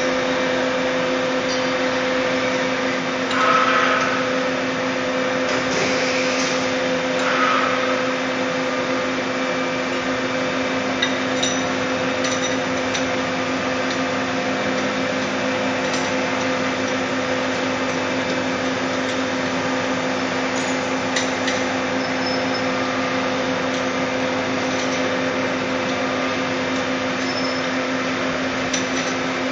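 Puma 350 CNC lathe running with a steady hum at constant pitch, with a few metallic clanks and clicks from handling, the loudest about three and a half and seven and a half seconds in.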